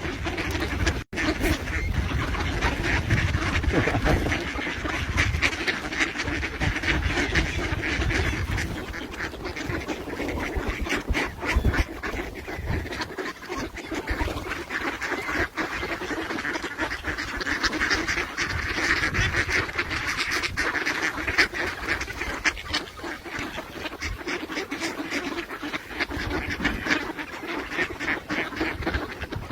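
A group of ducks quacking continuously at close range, with many short clicks and taps scattered throughout.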